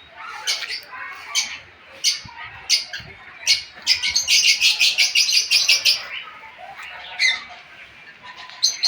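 Birds calling: sharp, separate squawks and chirps, with a fast run of calls, about seven a second, for some two seconds near the middle.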